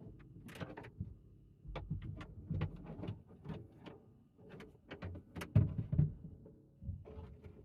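Gear being handled and moved about inside a pickup's camper shell: irregular knocks, clicks and rustling, with the sharpest bumps about five and a half and six seconds in.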